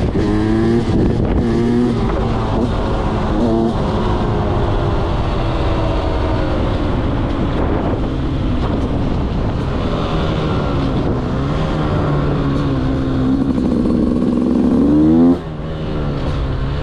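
Single-cylinder two-stroke engine of a 2023 Beta 200 enduro motorcycle running under load, its pitch rising and falling as the throttle is worked. Near the end it revs up sharply, then the throttle closes and the sound drops away suddenly.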